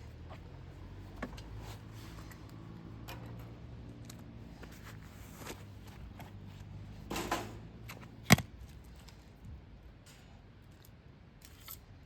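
Small handling sounds: scattered light clicks and rustles, a short scraping rustle about seven seconds in, then a single sharp click, over a faint steady low hum.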